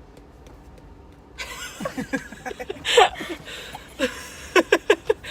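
Breathy laughter starting about a second and a half in, with a run of quick short bursts near the end.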